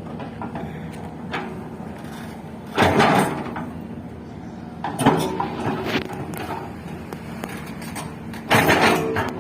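Heavy machinery running with a steady hum under three loud clattering crashes, a few seconds apart.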